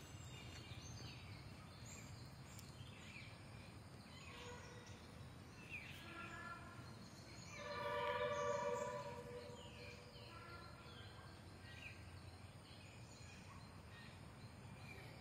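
Birds calling and chirping: scattered short high chirps, with one louder, longer call about eight seconds in.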